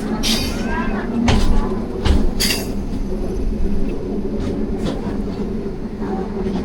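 Moving train running with a steady low rumble and hum, broken by several sharp knocks and clanks, the loudest about a second and a half and two seconds in.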